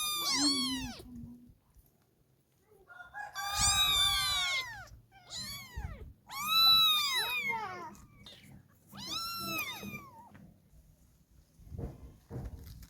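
Kittens meowing: about five high-pitched meows in the first ten seconds, each rising then falling in pitch, with pauses between them.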